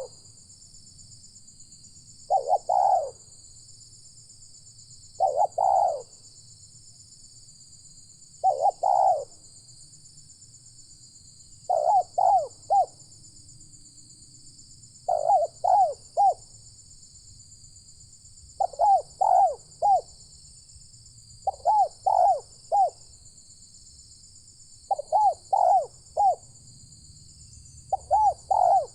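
Spotted dove (tekukur) cooing: a short phrase of three or four coos repeated about every three seconds, over a steady high-pitched buzz.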